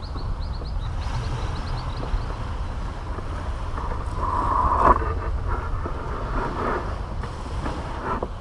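Caribbean Sea surf washing on a beach, with wind rumbling on the microphone. A bird gives a quick run of short chirps in the first second, and a wave swells and breaks around the middle.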